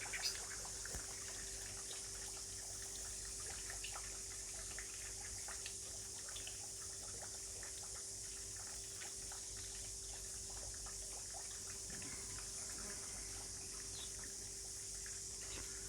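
Steady rain falling, with water trickling and dripping and a faint steady hum underneath.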